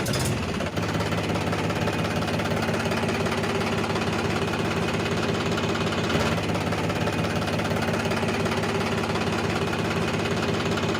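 Tractor-type engine idling steadily, a continuous low running sound with an even beat, starting abruptly at a cut.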